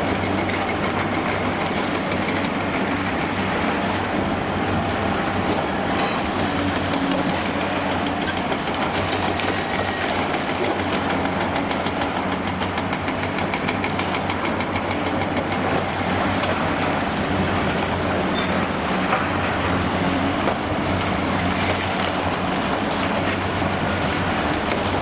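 Heavy demolition excavator's diesel engine running under load with a continuous metallic rattling clatter.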